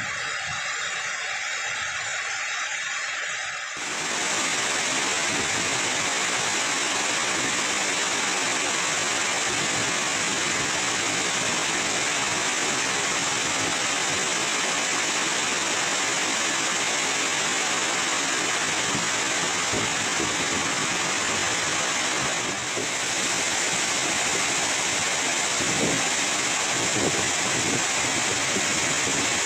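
Waterfall: a steady, even rush of falling water, which comes in loud about four seconds in after a quieter opening.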